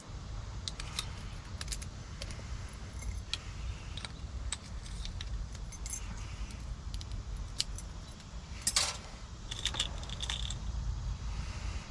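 Small metal clicks and light clinks of brass lock pins and tools being handled while rekeying a pin-tumbler lock, with a louder clatter about nine seconds in, over a steady low hum.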